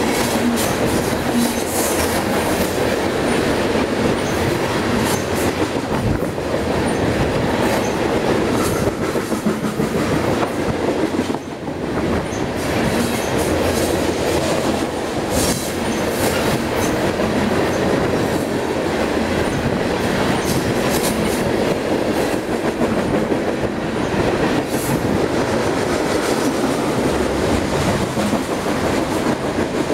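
Open-top coal cars of a freight train rolling past close by: a loud, steady rumble and rattle of steel wheels on the rails, with repeated clickety-clack of wheels over rail joints. The sound dips briefly about a third of the way through.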